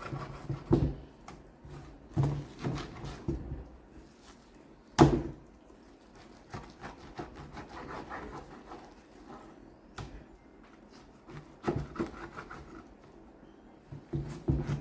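Knife cutting frozen pork shoulder into chunks on a cutting board: scraping strokes and irregular knocks of the blade on the board, with one sharp knock about five seconds in and another near ten seconds.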